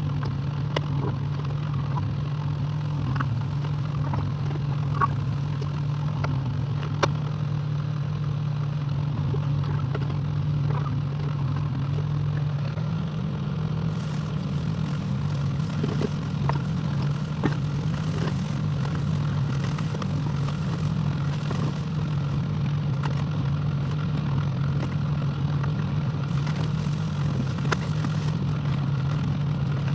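Excavator's diesel engine running steadily, with a few sharp metal clanks. The engine note rises slightly about halfway through.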